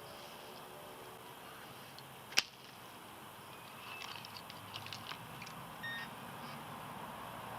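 Faint steady traffic noise from a busy road, with one sharp click about two and a half seconds in and a scatter of light ticks and a short beep later on.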